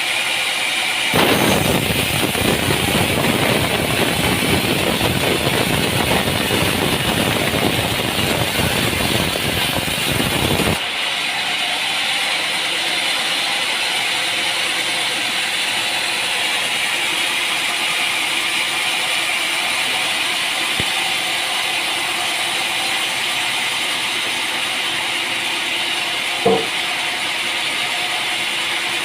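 Sawmill machinery running steadily, with a saw cutting through a log for about ten seconds near the start before stopping abruptly. A single knock comes near the end.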